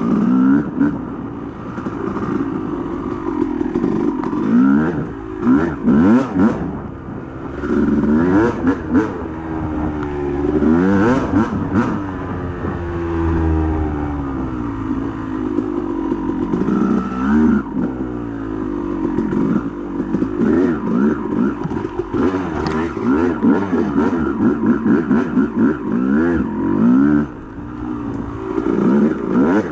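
Yamaha YZ250 two-stroke single-cylinder dirt bike engine being ridden, its pitch rising and falling again and again as the throttle is opened and closed, with scattered knocks and clatter.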